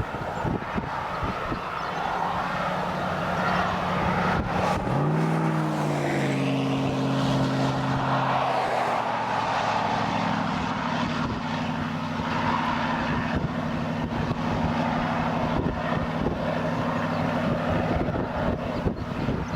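Steady wind and outdoor noise with a vehicle engine running. About five seconds in, the engine hum comes up and rises quickly in pitch, then holds steady.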